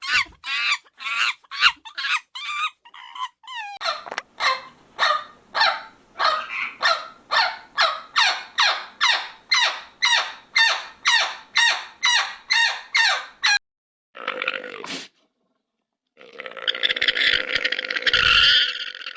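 An animal calling over and over in short pitched calls, about two to three a second, then after a pause a short burst and a longer, noisier stretch of sound near the end.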